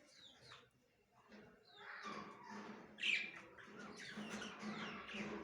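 Budgerigars chirping and chattering, with short sweeping calls. The birds are briefly quiet about a second in, then chatter more densely, loudest about three seconds in.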